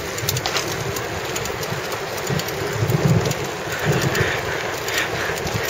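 Mountain bike rolling over rough ground, with a steady rumbling rattle of the bike and the trail, and wind on the microphone.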